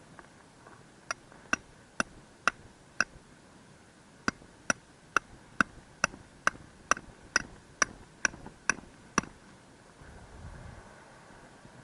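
Tent stakes being hammered into the ground: sharp, ringing strikes, five in a row, a short pause, then eleven more at about two a second.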